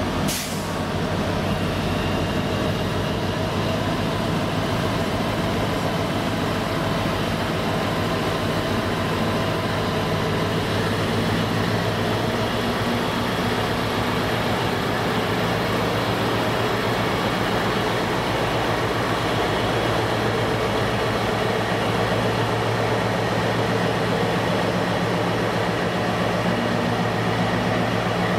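Diesel freight locomotive engine running steadily with an even low hum, its level unchanging throughout.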